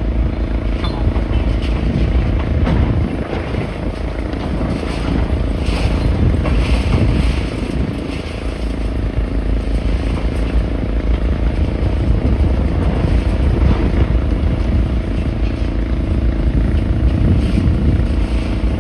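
An engine running steadily at a constant pitch, a loud low rumble throughout.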